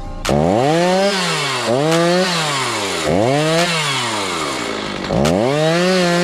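Two-stroke chainsaw revving up and falling back four times in a row, each rise and fall lasting about a second and a half.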